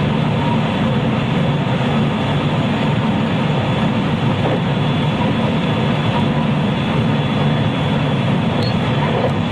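A JR West 223 series electric multiple unit's motor car running steadily, heard from inside the car: an even rumble of wheels on rails with a few faint steady tones from the drive above it.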